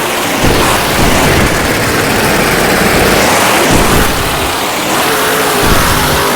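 Monster truck's engine running and revving, under a loud rushing noise.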